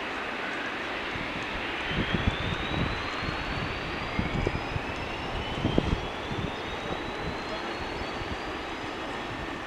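Jet airliner engines spooling up: two thin whines climb steadily in pitch over several seconds above a steady engine rush, with low rumbling thuds around the middle.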